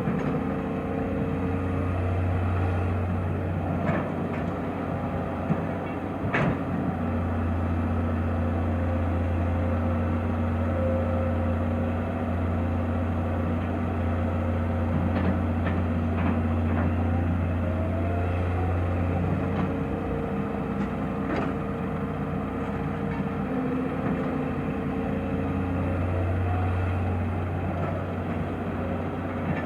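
Diesel engine of an excavator running steadily, with its note shifting slightly now and then. A few short metallic knocks or clanks come through, the sharpest about six seconds in.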